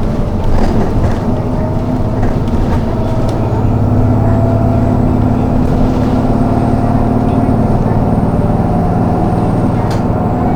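City bus running along the road, heard from inside the passenger cabin: a steady low engine and drivetrain hum with a thin whine that slowly rises in pitch as the bus gathers speed.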